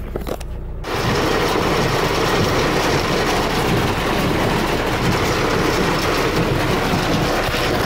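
Heavy rain beating on a moving car, heard from inside the cabin as a loud, dense, steady patter that starts suddenly about a second in, over the low rumble of the engine and road.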